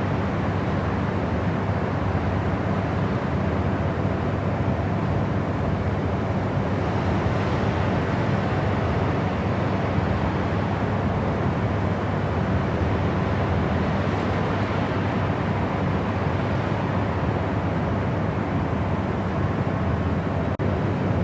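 Steady white noise for sleep, a constant rushing hiss weighted towards the low end, unchanging throughout, with a very brief dropout just before the end.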